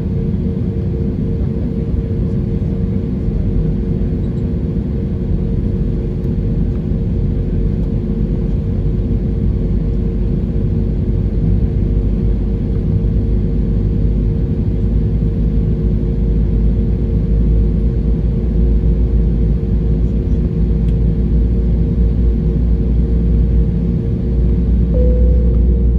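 Jet airliner engines running steadily, heard as a constant low rumble with a steady droning hum through the aircraft.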